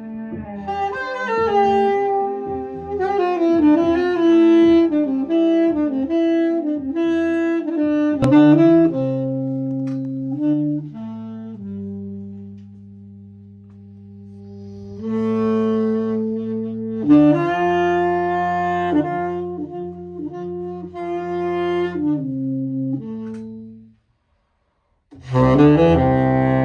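Saxophone playing a melody over long held low notes from a cello. The sound cuts out completely for about a second near the end, then fuller music comes back.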